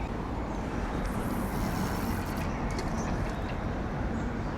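Steady low rumble and hiss of outdoor background noise, with a faint hum running through it.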